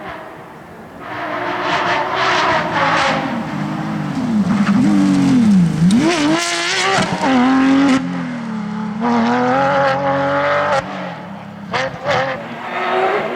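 Porsche 911 GT3 rally car's flat-six engine revving hard, its pitch swinging up and down through gear changes with a deep drop and climb about six seconds in, over a hiss of tyre noise. The loudness jumps abruptly a few times where the shots change.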